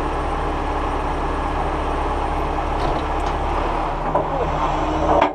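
Heavy truck engine running steadily, with a sharp knock near the end.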